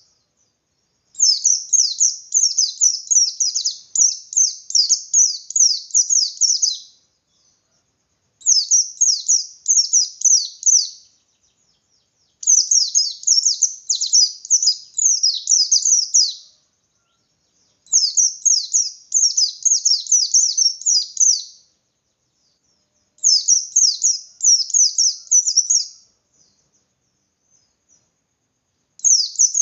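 White-eye (pleci, 'bustomi' type) singing an agitated, persistent 'ngalas' song: phrases of rapid, high, falling chirps, each a few seconds long, with short pauses between them, six phrases in all.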